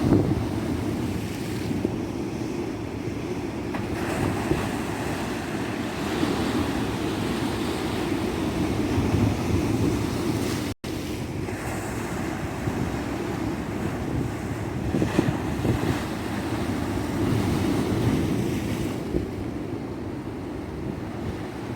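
Tropical surf breaking and washing up a beach in a continuous, slowly swelling rush. The sound cuts out for an instant about halfway through.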